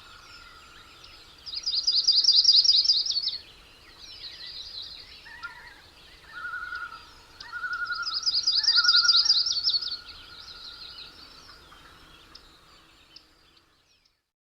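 Birds singing: two loud, rapid high-pitched trills a few seconds apart over fainter chirping and a steady lower call, fading out near the end.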